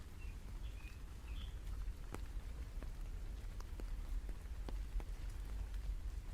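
Rain falling, with scattered single drops ticking sharply over a steady low rumble. A few faint, short high chirps come in the first second and a half.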